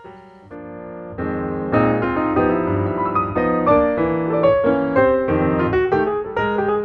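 Background piano music, a run of notes that is quiet for the first second or so and then grows louder.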